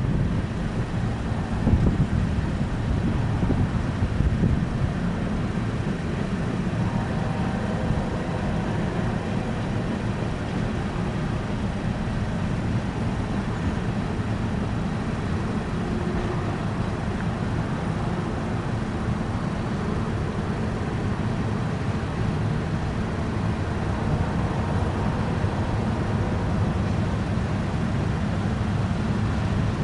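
Empty coal train rolling past: a steady rumble of steel wheels on rail, with a few sharp knocks in the first few seconds.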